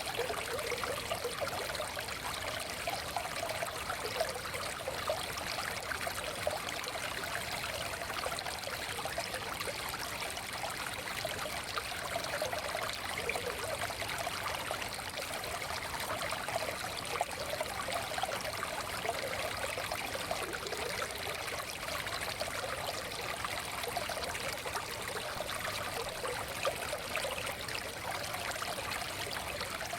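Forest stream flowing steadily over stones, a continuous babbling trickle with no breaks.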